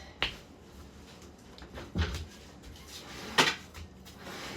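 Three short knocks or clunks, roughly a second and a half apart, with quiet in between and no engine running.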